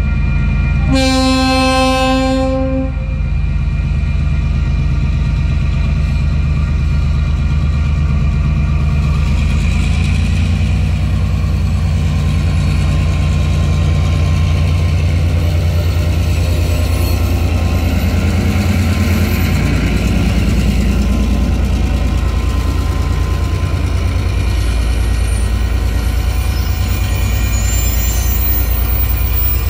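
TasRail DQ-class diesel-electric locomotive sounds one horn blast about a second in, lasting about two seconds, then its engine runs with a steady low rumble as it hauls the cement hopper wagons past. Near the end the wagon wheels start to squeal on the rails.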